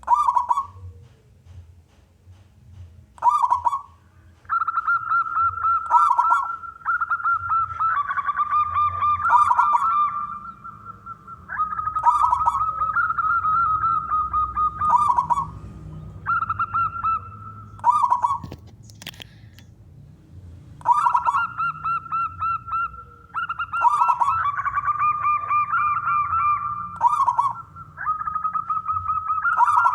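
Male zebra dove (perkutut) singing its rolling coo over and over. Each phrase is a fast run of notes at nearly one pitch, lasting a few seconds, with short pauses between phrases.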